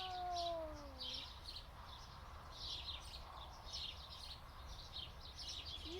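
Small birds chirping over and over, short high-pitched calls repeating every half second to a second, with a steady low rumble beneath. A brief drawn-out, falling voice-like sound in the first second.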